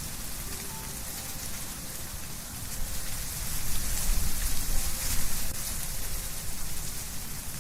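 Wind rustling through tree leaves: a steady hiss that swells in a gust through the middle, then eases.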